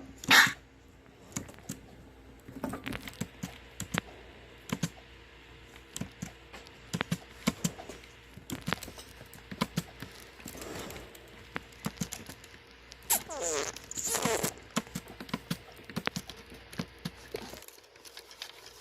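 Scattered light clicks and taps throughout, with a sharp brief noise right at the start. About two-thirds of the way in, two short calls with falling pitch: a cat meowing.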